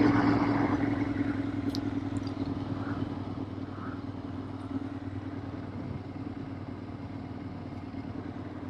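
Ducati Monster 696's air-cooled L-twin engine with Akrapovic slip-on exhausts running at a steady low note, loudest in the first second and then settling quieter and even.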